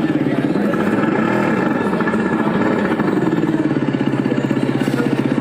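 Motorcycle engine sound running at a steady idle with a fast, even pulse, its pitch swelling up and back down once near the start.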